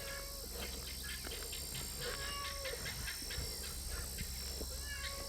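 Domestic cat meowing from its carrier, a few faint drawn-out meows, one near the start and another about two seconds in. The cat is frightened while being moved to a new house.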